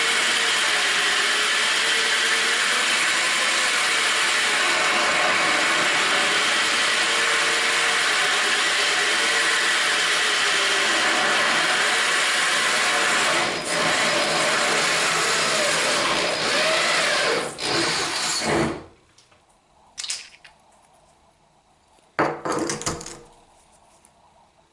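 Corded drill driving a diamond-coated bit through porcelain tile: a loud, steady grinding with a whine that wavers in pitch. It dips briefly twice and stops about 18 seconds in. Two short noises follow near the end.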